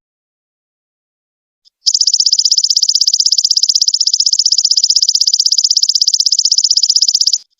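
Stridulating trill of the golden locust (belalang emas). After a short silence and a faint single chirp, it begins about two seconds in as a long, fast, evenly pulsed high-pitched buzz, and cuts off abruptly just before the end.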